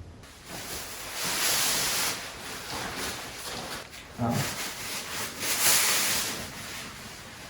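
Hand scraper rasping old antifoul paint off the wooden hull planks in several long strokes.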